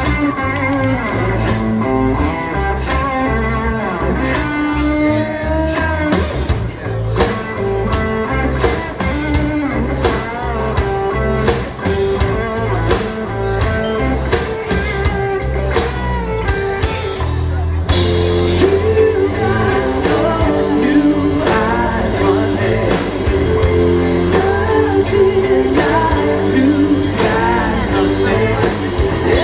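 Live rock band playing with electric guitar and a singing voice over bass and drums. The music gets fuller and louder about eighteen seconds in.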